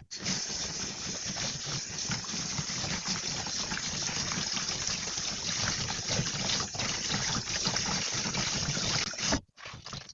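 Kitchen tap running water steadily, turned on at the start and shut off abruptly about nine seconds in.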